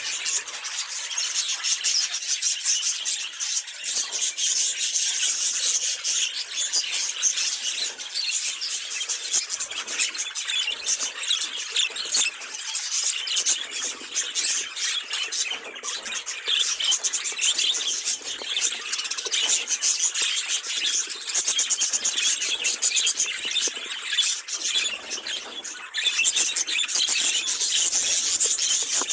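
A flock of budgerigars chattering and warbling together in a dense, continuous, high-pitched stream of squeaks and clicks.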